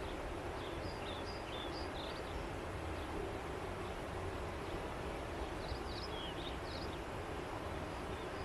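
Steady rush of flowing river water. A bird calls over it in two bursts of quick, high chirps, near the start and again after the middle.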